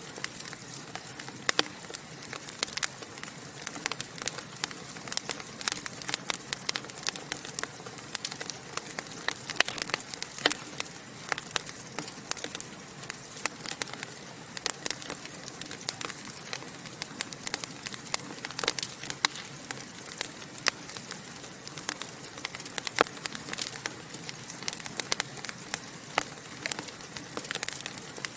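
Wood fire burning in a fireplace, crackling and popping in quick irregular snaps over a steady hiss.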